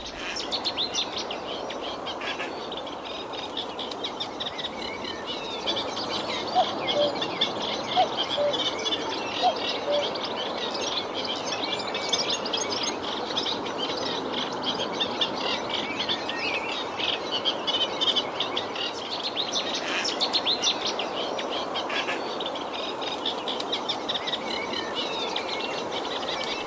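Common cuckoo calling its two-note falling 'cuck-oo' about three times, about a quarter of the way in. Behind it, and louder, a dense chorus of songbirds sings without a break.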